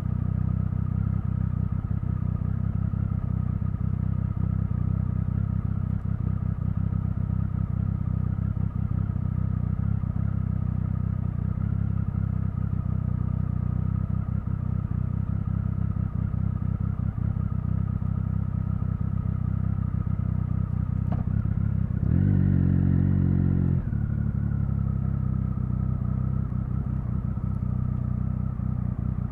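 Triumph Speed Triple 1050's inline three-cylinder engine running steadily, with a short burst of throttle about two-thirds of the way through that lasts under two seconds before it settles back.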